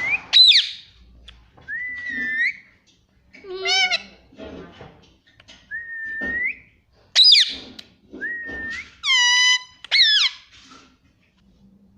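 Indian ringneck parakeet whistling and calling: about eight short calls a second or two apart, with rising whistles alternating with sharper, shriller calls.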